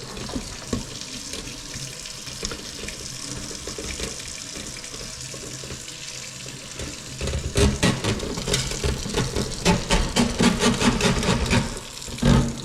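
Water running from a kitchen tap into the sink, steady at first; from about halfway through, irregular knocks and splashing over the running water as the clogged dishwasher drain line is flushed out.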